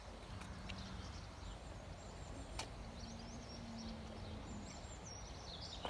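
Quiet outdoor ambience of small birds chirping faintly over a low steady rumble, with a single sharp click about two and a half seconds in.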